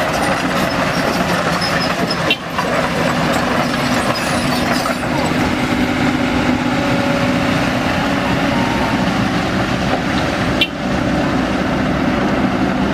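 Heavy diesel engine running steadily, with two brief dips in loudness, about two and a half seconds in and again near the end.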